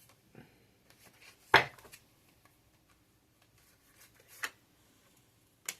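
Tarot cards being handled on a table in a small room: a sharp slap about a second and a half in, then two softer snaps later, near the end.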